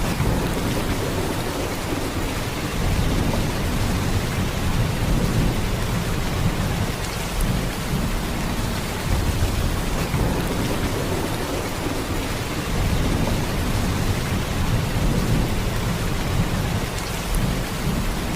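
Heavy rain pouring steadily: a dense, even hiss of a downpour with a low rumble underneath that swells and eases every few seconds.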